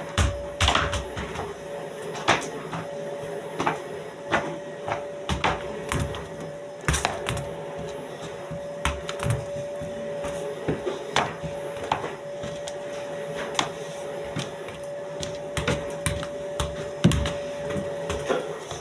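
A vacuum cleaner running steadily in the background, a constant whine, under frequent irregular clicks and knocks close by.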